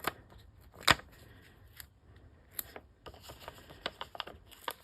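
Light clicks, taps and paper rustles of cardstock being handled as foam adhesive dimensionals are peeled from their sheet and pressed onto the back of a paper layer. A sharper tap about a second in is the loudest, with a run of small ticks in the second half.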